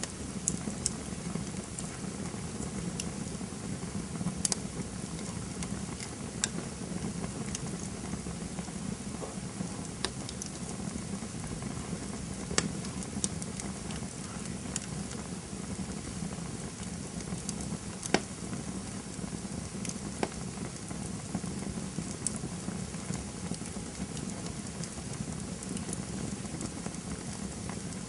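Wood fire burning with a steady low rush of flames and irregular sharp crackles and pops from the burning wood.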